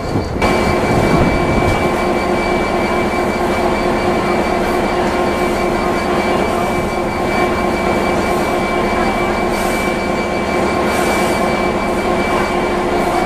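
Railway locomotive standing and running steadily, a constant engine hum with a thin steady whine above it.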